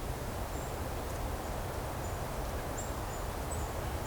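Faint, very high, thin call notes from small woodland songbirds, a scattering of short single notes over a steady hiss of outdoor background noise.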